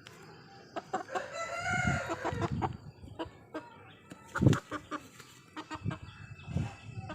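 Aseel rooster crowing once, a drawn-out call starting about a second in. Scattered sharp knocks and low thumps follow, along with clucking.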